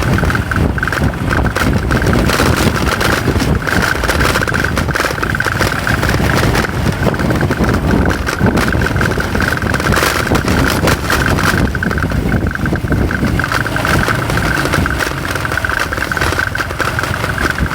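Motorcycle engine running steadily while being ridden, with constant road and wind noise.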